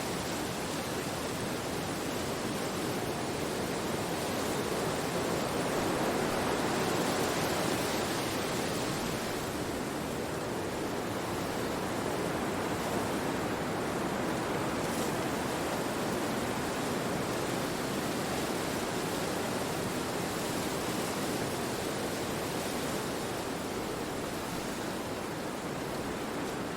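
Wind blowing through forest trees: a steady rushing that swells a little about six seconds in, then eases.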